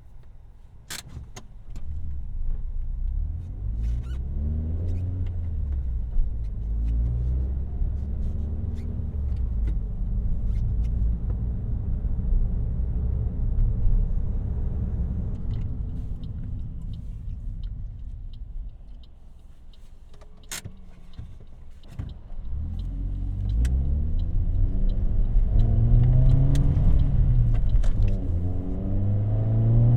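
A car's engine and exhaust heard while driving: the revs rise through acceleration, fall away about two-thirds of the way through, then build again near the end. Two sharp clicks stand out, one near the start and one in the lull.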